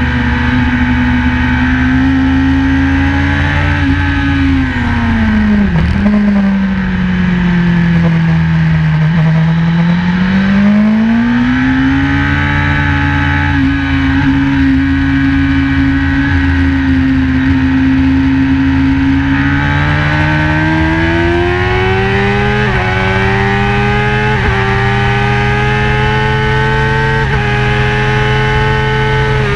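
BMW S1000RR's inline-four engine at full chat on track, heard from an onboard camera. It holds a steady high note, falls away through a slowdown with a brief sharp dip about six seconds in, and rises again. Near the end it climbs steadily, with short drops in pitch at the upshifts.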